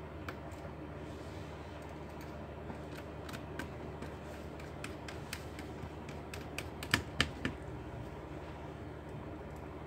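Scattered light clicks and taps of laptop parts being handled by hand, with two sharper clicks close together about seven seconds in, over a steady low hum.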